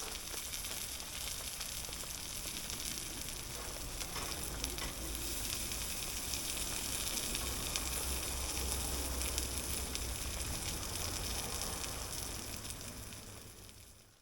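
Steady hiss of rain with a few faint ticks, fading out near the end.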